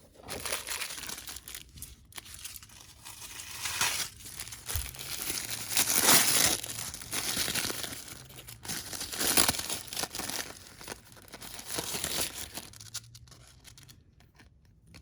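Paper wrapping being torn and crinkled by hand as small wrapped gifts are opened, in irregular rustling bursts that die down near the end.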